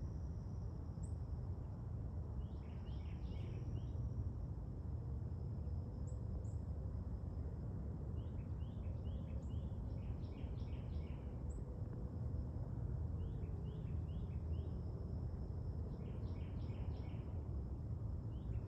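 Steady low rumble of outdoor background noise, with a bird calling in short runs of four or five quick chirps every few seconds, and a faint steady high insect-like whine.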